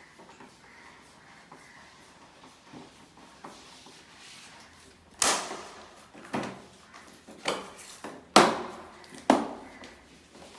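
Five sharp knocks, about a second apart, starting about halfway through, over faint background noise in a small room.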